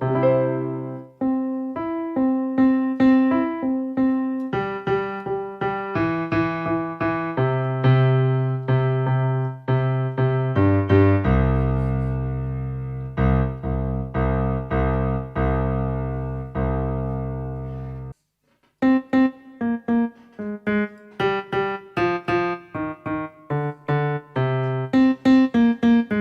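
Acoustic piano tone on a Casio AiX portable keyboard, played as melody and chords. Midway a low chord is held for several seconds and then cuts off suddenly. After a brief silence, quicker notes follow.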